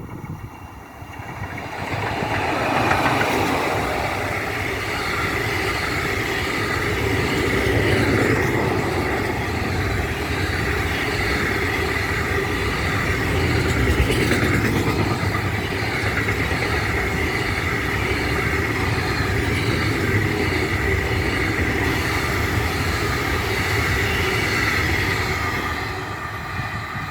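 Freight train of a class 155 electric locomotive and silo wagons rolling past at close range. The sound swells about two seconds in, holds steady with a high ringing tone from the wheels and rails, and eases off near the end.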